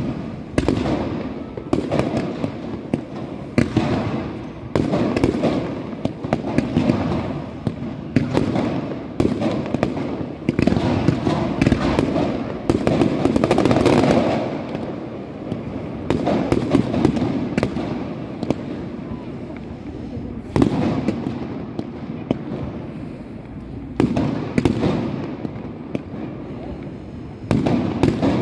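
Fireworks display: rapid, overlapping bangs and crackling from rising comets and bursting aerial shells. It is densest about twelve to fourteen seconds in, thins to more scattered reports for several seconds, then picks up again near the end.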